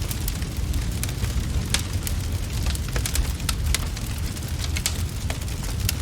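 Wood fire crackling and popping over a steady low rumble, with sharp crackles every fraction of a second.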